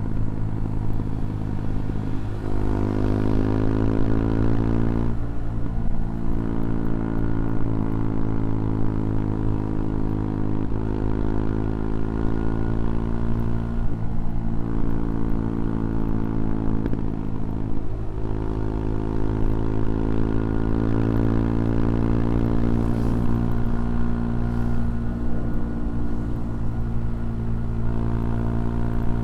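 CFMoto Papio XO-1's single-cylinder engine running while riding. Its pitch climbs and then drops several times as the speed and gears change, over a steady rush of wind and road.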